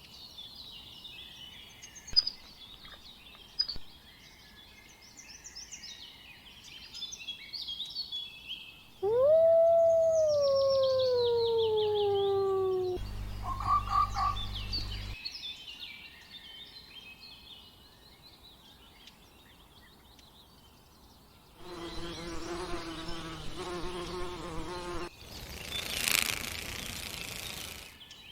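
A series of different animal calls: chirping birdsong, then a long loud call falling in pitch about nine seconds in, followed later by a steady pitched call and a short noisy burst near the end.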